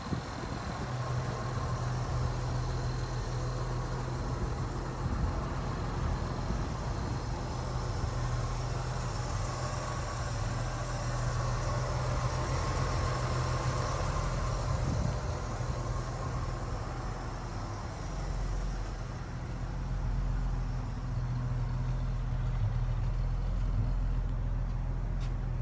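1976 Chevrolet Blazer's engine running steadily with a constant low hum. The deepest rumble grows stronger about two-thirds of the way through.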